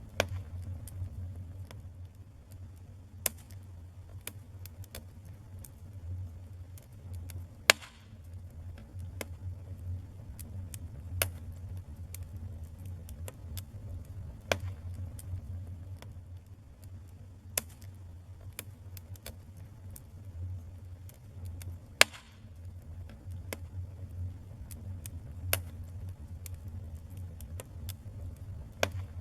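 Wood fire crackling in a fireplace: irregular sharp pops and snaps over a steady low rumble, with a couple of much louder snaps, about eight seconds in and again about twenty-two seconds in.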